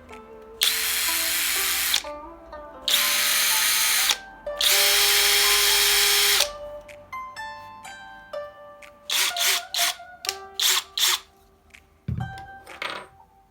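Abeden HY-2035 18V brushless drill driver running in three loud runs of one to two seconds each, each a steady whine, followed by a series of short, sharp bursts near the end.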